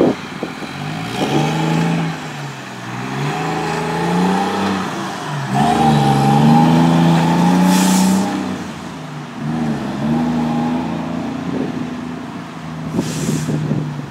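Heavy diesel engine revving up and dropping back several times, loudest a little past halfway. There are two short hisses of air, one about eight seconds in and one near the end.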